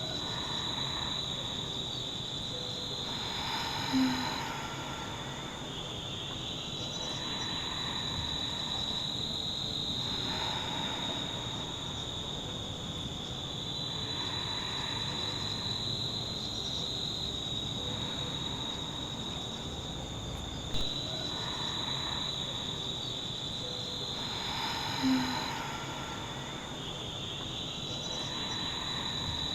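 Steady, high-pitched chorus of insects, such as crickets or cicadas, trilling continuously.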